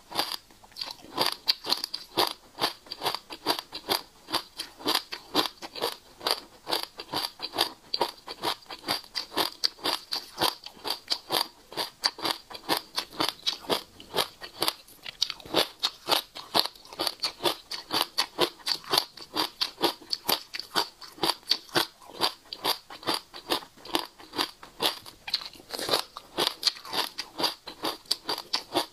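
Passion fruit seeds being chewed close to the microphone: a dense, even run of small sharp crunches, several a second.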